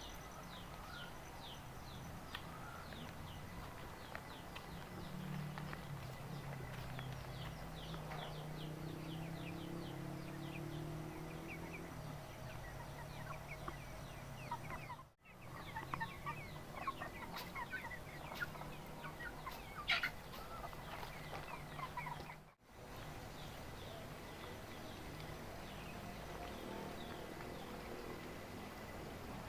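Domestic chickens clucking, amid rapid high chirps that repeat throughout and a low steady hum. The sound drops out briefly twice.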